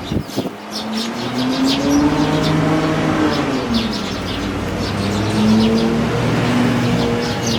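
A motor vehicle's engine drones past, its pitch rising over about two seconds and then falling, then holding steadier. Faint sparrow chirps sound above it, with a couple of knocks right at the start.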